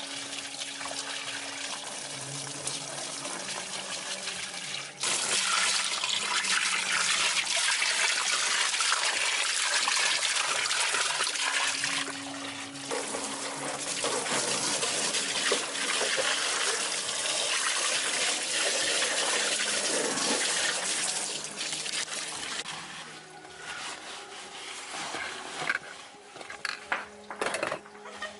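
Water spraying or gushing, switched on suddenly about five seconds in, with a short dip near the middle. It dies away later, and a few sharp knocks follow near the end.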